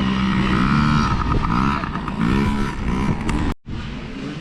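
Several kids' dirt bikes accelerating off the start line, their engines revving up and falling back again and again as they shift up through the gears. About three and a half seconds in the sound cuts out for a moment, and fainter engine noise follows.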